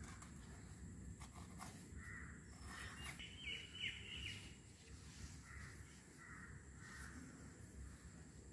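Faint bird calls, a few short calls a couple of seconds in and again past the middle, over low steady outdoor background noise.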